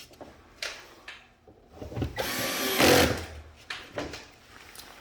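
A cordless screwdriver runs for about a second, driving a screw while a ceiling-cassette air conditioner panel is fastened. Sharp plastic clicks and knocks come before it and after it.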